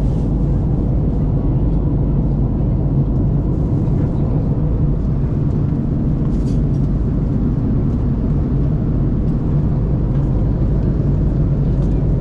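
Steady drone of engine and airflow noise inside an Airbus A330-300 passenger cabin, even and unchanging, with a few faint ticks.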